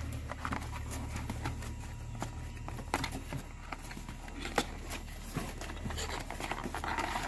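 Scattered light clicks and taps of small parts being handled, over a low steady hum.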